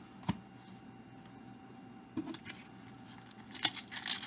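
Baseball trading cards and their pack wrapper being handled: a sharp click just after the start, then rustling and crinkling in the last second.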